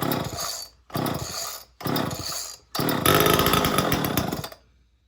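Homelite XL two-stroke chainsaw being pull-started: three pulls on the starter cord about a second apart, then the engine fires on the next pull and runs for under two seconds before it suddenly dies, a first catch with the choke set.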